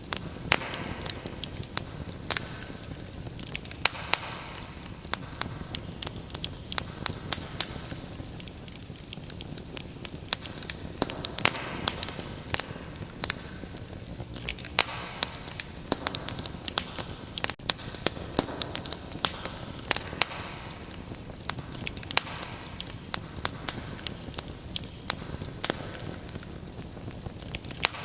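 Wood fire crackling: irregular sharp pops and snaps, several a second, over a low steady hiss of burning.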